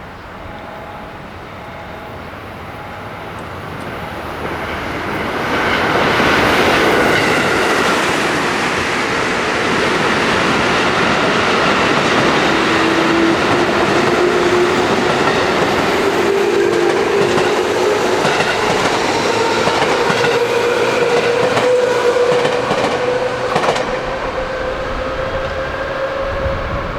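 JR West 221 series electric train pulling away and accelerating, with wheels clacking over rail joints. Its traction motor whine climbs steadily in pitch through the second half.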